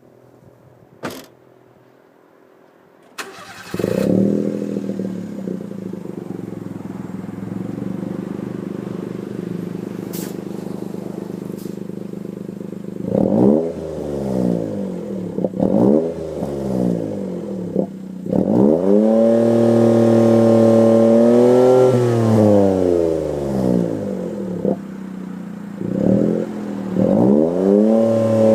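Exhaust of a Daihatsu L700S Mira Gino's three-cylinder engine, fitted with a Bosco front pipe and an Auto Ace centre muffler. It starts about four seconds in and idles steadily. Then it is blipped several times, with one longer rev held for a few seconds about two thirds of the way through.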